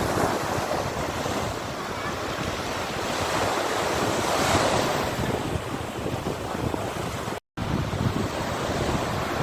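Sea waves breaking and washing ashore, with wind rumbling on the microphone. One wave swells louder about halfway through, and the sound drops out for a split second near the end.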